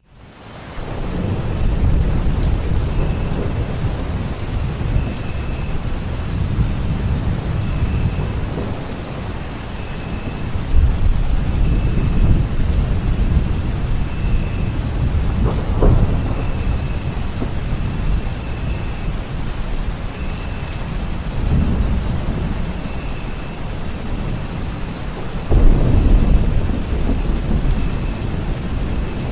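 Steady rain with rolling thunder. The low rumble swells in waves, strongest about a third of the way in and again near the end. A faint short high chirp repeats every second or two.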